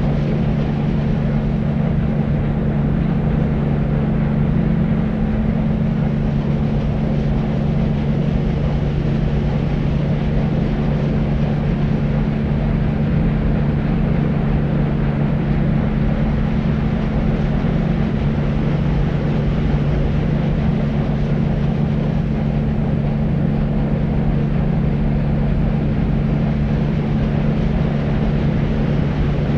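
Deep white noise: a steady, unchanging low hiss with most of its energy in the bass and little treble, carrying a constant low hum within it.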